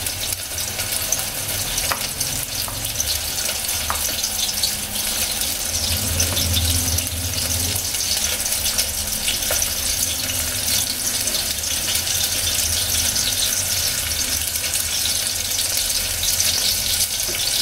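Sliced onions sizzling in hot oil in a pan, a steady crackling hiss, with a few light clicks of a knife against a ceramic plate as tomatoes are cut.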